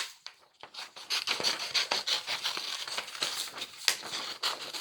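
Scissors cutting a circle out of paper: a quick, uneven run of small snips with paper rustling, starting after a short pause.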